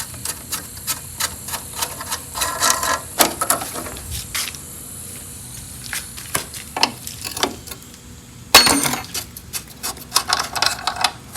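Metal hand tools clicking and clinking against engine parts while a rusted, seized part is worked loose from the engine head, with a louder rasp about eight and a half seconds in.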